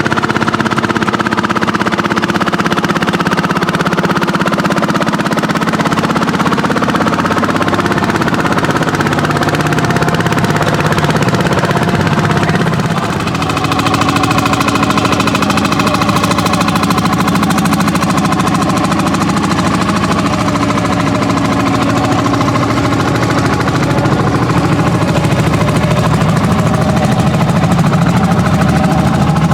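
Landini hot-bulb tractors' single-cylinder two-stroke engines running under plowing load, a steady exhaust beat. About halfway through the level dips briefly and the engine pitch shifts.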